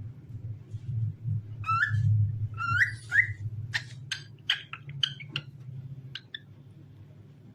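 Cockatiel whistling and chirping: a few short whistled notes that swoop upward, then a quick run of short sharp chirps, over a steady low hum.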